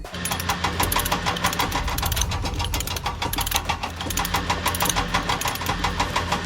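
Mini tractor engine idling with a rapid, even chugging.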